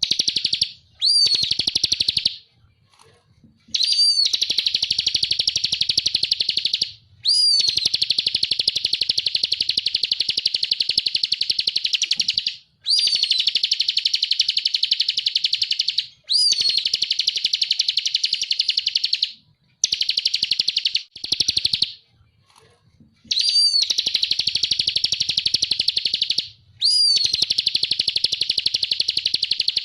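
Ciblek kristal (a prinia) singing: a quick high whistle that rises and falls, then a long, very fast, buzzy trill. The phrases repeat one after another with short pauses between them.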